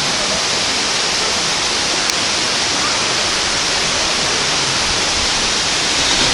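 Forest river rushing steadily over rocks, a loud, even, unbroken sound of flowing water.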